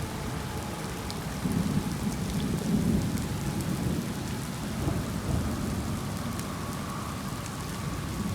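Heavy rain falling steadily, with a low rumble underneath that swells about two seconds in.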